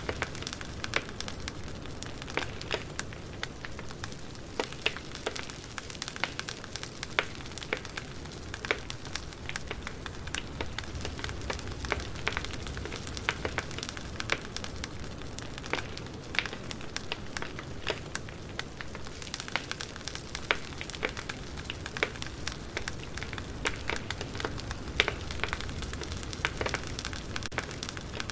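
Campfire burning: a steady low rush of flames with frequent sharp, irregular crackles and pops of burning wood.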